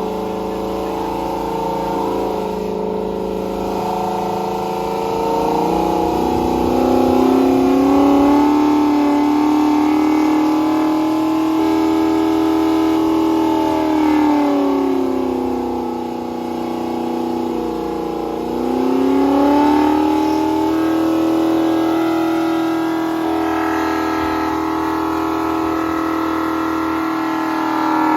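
Car engine running under sustained high revs, its pitch climbing a few seconds in, sagging a little past halfway and climbing back again.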